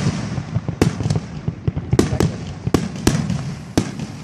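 Fireworks exploding: sharp bangs at irregular intervals, with a quick cluster of them in the second half, over a steady low rumble.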